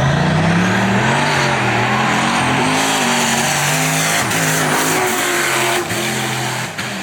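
Drag-racing cars launching off the line and accelerating hard down the strip, their engine note climbing in pitch and dropping back at each of several gear shifts.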